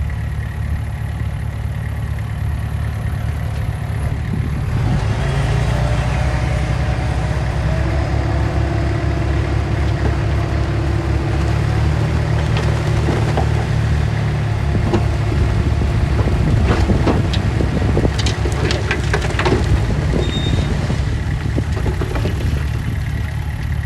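Diesel engine of heavy earthmoving machinery running steadily. It grows louder about five seconds in, and a few sharp clanks come later on.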